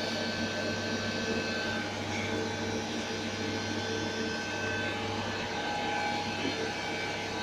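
A steady machine hum holding several constant pitches, with no distinct knocks or changes.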